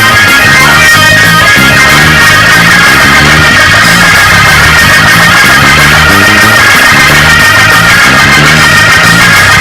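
Loud live church band music for a praise break: guitar and bass playing a repeating, driving line.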